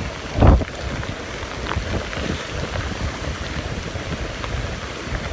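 Strong tropical-storm wind blowing across the microphone over the rush of wind-driven waves. There is one loud burst about half a second in.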